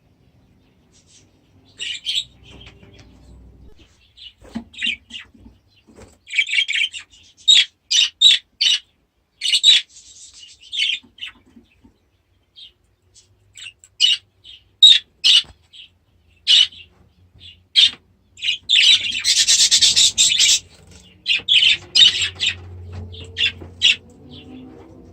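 Budgies and canaries chirping and calling in short, high bursts, with a dense spell of chatter about three-quarters of the way through.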